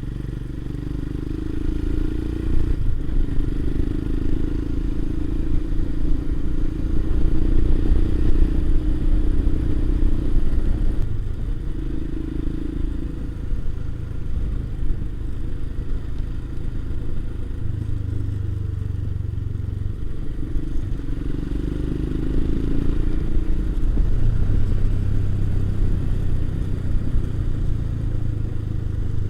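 Motorcycle engine running on the move, its note rising and easing off over several seconds at a time, over a steady low rumble.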